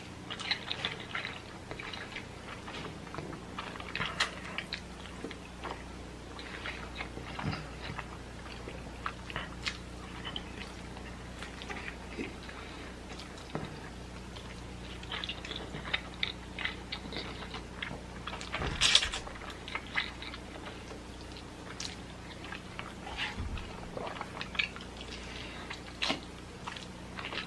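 A person chewing and eating spicy noodles, heard as irregular wet mouth smacks and clicks over a faint steady low hum.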